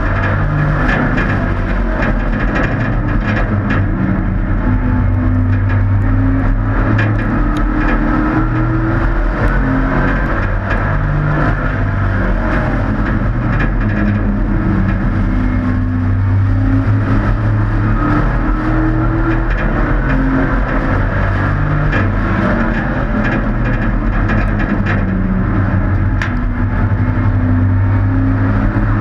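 Several hobby-class race truck engines running laps together, their pitches rising and falling as they accelerate and back off.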